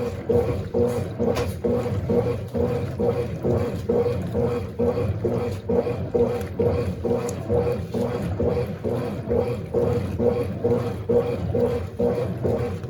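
Baby Mondial BLK20 washing machine agitating its load of dark clothes in water: the motor hums steadily while the churning water pulses about twice a second.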